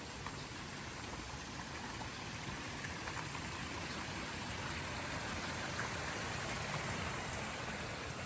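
Steady rushing and pattering of water, growing slightly louder towards the middle, with a few light ticks.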